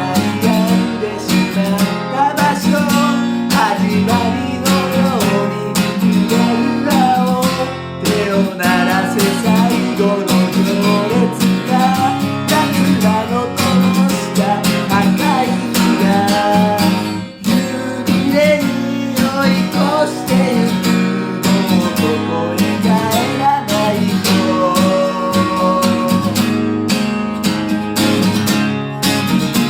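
Acoustic guitar strummed in a steady rhythm, playing a song's accompaniment, with a short break in the strumming about seventeen seconds in.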